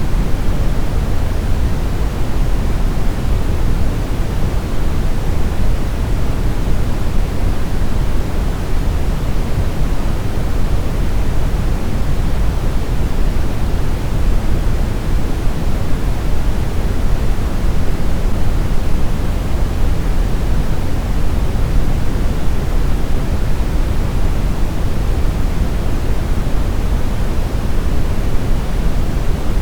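Steady synthetic brown noise: an even, deep hiss weighted toward the bass, unchanging throughout.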